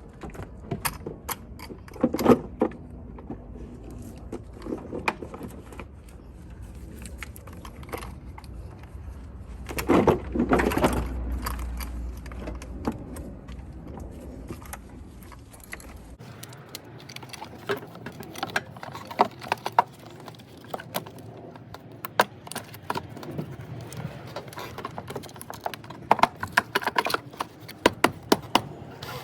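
Scattered metallic clinks and clicks of hand tools and metal parts being handled, with a louder clatter about a third of the way through.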